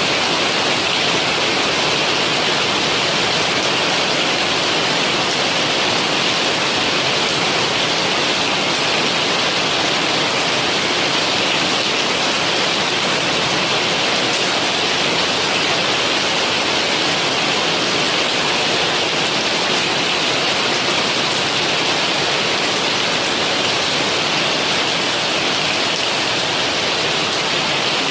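Heavy rain falling steadily, an even hiss that doesn't change, with no thunder.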